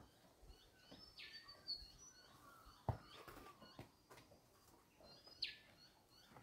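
Near silence with faint bird chirps now and then, the clearest about a second in and near the end, and a soft click about three seconds in.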